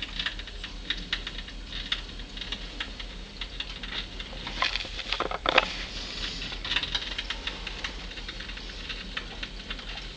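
A cat chattering at birds: fast, irregular clicking, with a louder burst a little past the middle.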